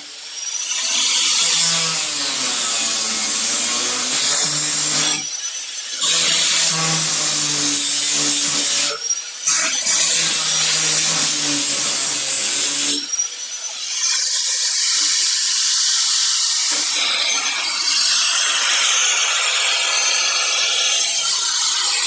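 A power cutting tool cutting through the sheet-metal lip at the bottom of a 1957 Chevy 210 inner door, in four long runs with short pauses between them.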